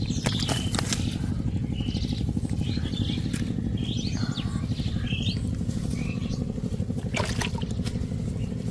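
Birds chirping repeatedly with short, quick calls over a steady low rumble that pulses rapidly like a small running engine, with a few sharp clicks.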